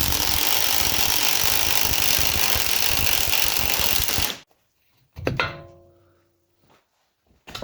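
A pneumatic workshop tool runs with a fast hammering buzz for about four seconds, then cuts off suddenly. About a second later a metal part gives a single ringing clang that dies away.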